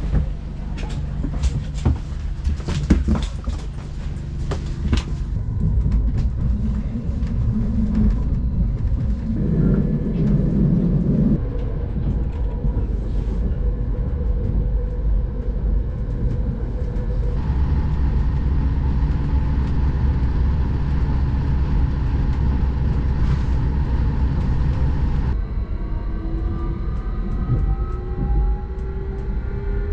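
A train running with a steady low rumble and a rattle of clicks in the first few seconds. Near the end a whine starts and rises in pitch as the train picks up speed.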